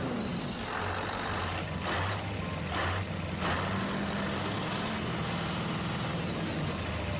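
Mini tractor engine running steadily with a low drone whose pitch swells and falls a few times.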